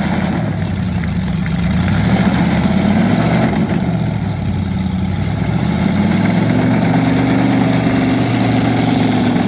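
Car engine running loud, its pitch slowly rising and falling with the throttle.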